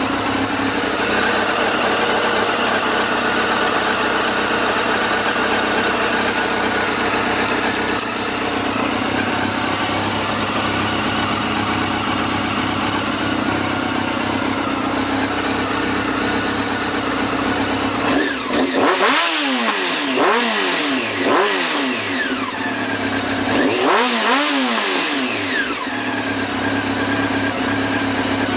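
Honda CBR600F inline-four motorcycle engine idling steadily through its exhaust, then revved with three quick throttle blips and one longer rev about two-thirds of the way in, each rising and falling back to idle.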